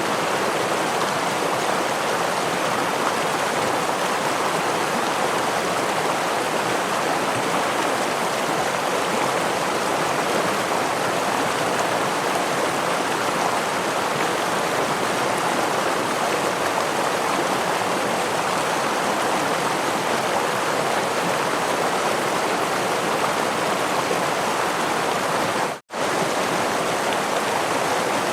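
Steady rushing of a gentle stream and small waterfall, water running continuously. It cuts out to silence for a split second about 26 seconds in, then carries on unchanged.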